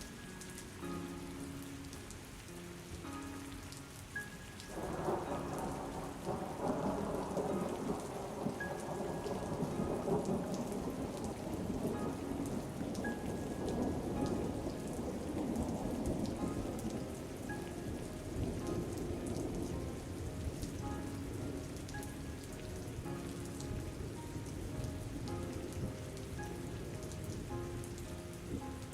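Steady rain with a long roll of thunder that breaks in suddenly about five seconds in and rumbles away over the next ten seconds or so. Soft background music plays underneath.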